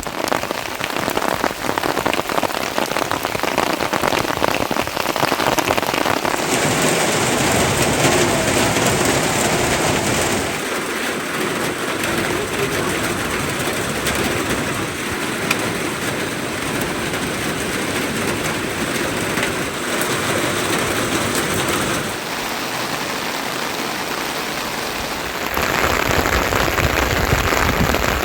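Heavy monsoon rain falling steadily, a dense hiss of drops on surfaces. Its tone and loudness change abruptly a few times.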